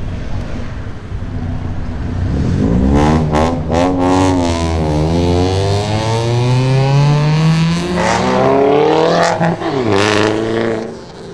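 A modified car's engine revved hard several times, then accelerating with a long rise in pitch before fading away. A few sharp cracks from the exhaust are mixed in with the revs.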